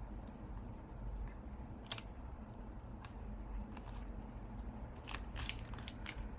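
Paper and masking tape being handled on a craft journal page: a few short crisp crackles and clicks, one about two seconds in and a cluster near the end, over a low steady hum.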